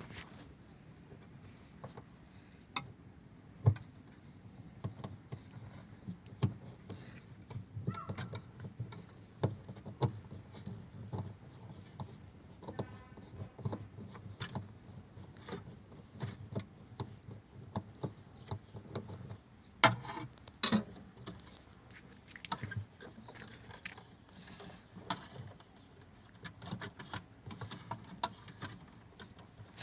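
Scattered light clicks, taps and rustles of hands working on a refrigerator thermostat and its fittings, with sharper knocks about four seconds in and around twenty seconds in.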